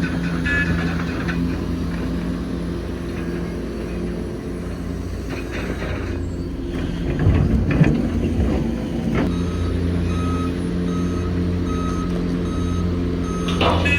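Heavy diesel earthmoving machinery running steadily, with a burst of knocks and rattles around the middle. In the last few seconds a reversing alarm beeps at an even pace, a little faster than once a second.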